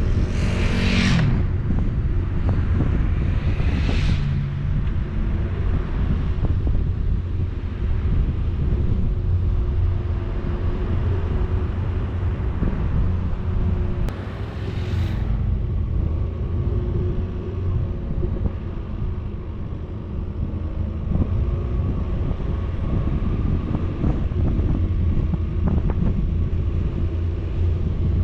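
Vehicle on the move: a steady low rumble of engine and road with wind buffeting the microphone, and brief rushing whooshes about a second in, at around four seconds and at around fifteen seconds.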